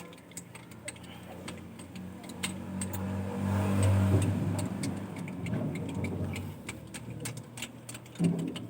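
A motor vehicle engine running, growing louder to a peak about four seconds in and then easing off, with sharp ticks throughout.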